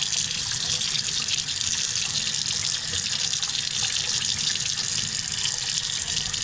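Water running steadily from a tap as freshly dug purple potatoes are rinsed under it. The flow comes on suddenly and is shut off abruptly at the end.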